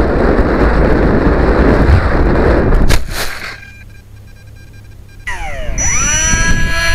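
Strong wind buffeting the microphone, ending abruptly with a knock about three seconds in. After a short lull, the whine of the RC plane's electric motor starts, dipping in pitch and then holding steady.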